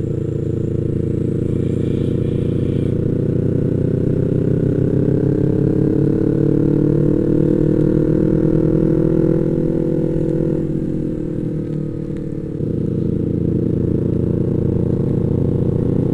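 Yamaha MT-25 motorcycle's parallel-twin engine running under way, its pitch rising slowly as it pulls for several seconds, then falling off about two-thirds through as the throttle eases, and picking up again shortly after.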